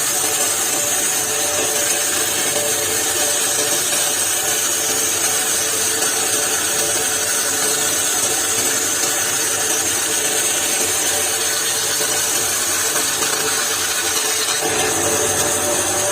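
Power tool running steadily through wood, a continuous loud hiss with a steady whine under it; the sound shifts slightly about a second and a half before the end.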